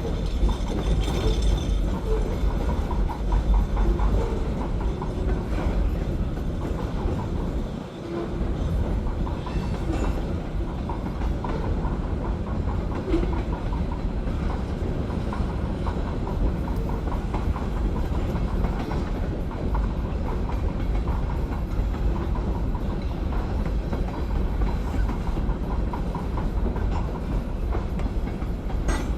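Short LA&L freight train rolling past, a steady low rumble with the wheels clicking over the rail joints.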